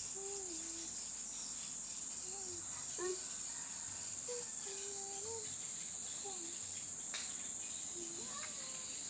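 Steady high-pitched drone of insects such as crickets, with a few short, low whistled calls scattered through it, some gliding down, and a single sharp click about seven seconds in.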